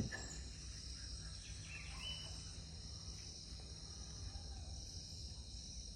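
Steady high-pitched insect chorus, such as crickets or cicadas, over a low background hum, with a brief faint chirp about two seconds in.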